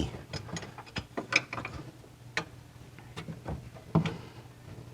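Hand socket ratchet clicking in short, irregular runs, with light metal clinks of the tool on the nuts, while loosening the intake manifold nuts on an air-cooled VW engine.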